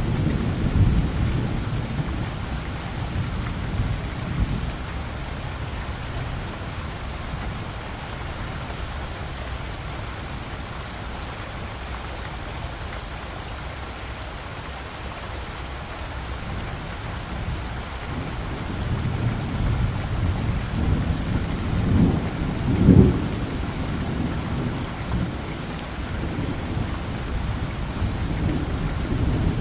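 Steady rain falling, with low rolling thunder that fades over the first few seconds, grows again in the second half, is loudest a little past the middle of that half and builds again near the end.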